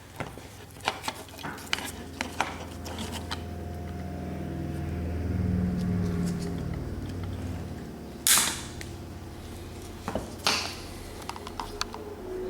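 Small clicks and clinks of hands working ceiling fan wiring with hand tools and wire nuts, with a low hum swelling in the middle and two louder scraping rustles about eight and ten seconds in.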